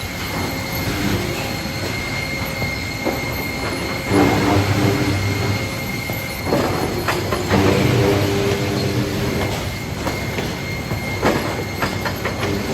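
Sawmill twin bandsaw sawing a cant into boards on its conveyor: a steady high whine, with two bouts of deeper droning as the wood is fed through and scattered knocks and clatter.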